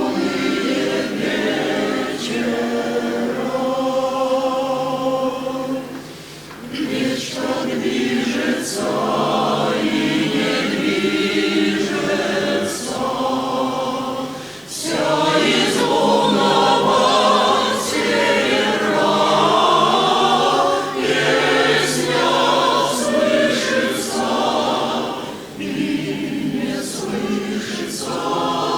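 A choir singing in harmony, with brief pauses between phrases.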